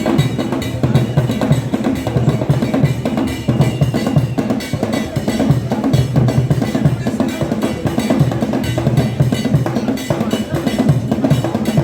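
Adowa dance music led by drums: a dense, steady rhythm of low drum strokes that keeps going without a break.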